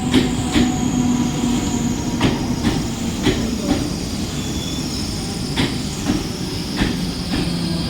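Mumbai suburban local train running on the rails: a steady rumble with irregular clacks of the wheels, and a high whine that slowly falls in pitch.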